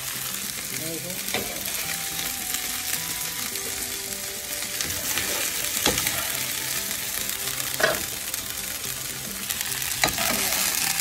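Chicken pieces sizzling steadily as they are lightly fried in a pan, being stirred, with a few sharp knocks against the pan.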